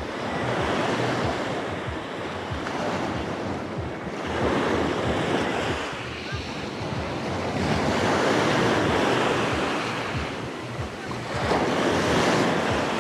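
Sea waves breaking on the shore and washing back, the surf swelling and fading about four times, with wind buffeting the microphone.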